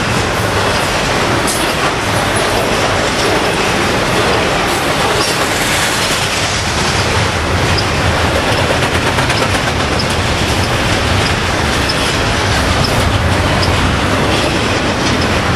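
Double-stack container well cars of a long freight train rolling past at track speed: a loud, steady roar of steel wheels on rail, with faint short ticks recurring throughout.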